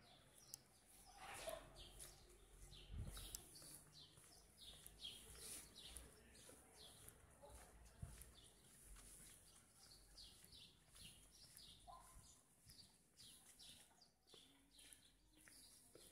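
Faint bird chirping: many short, high, falling chirps in quick succession over quiet city background.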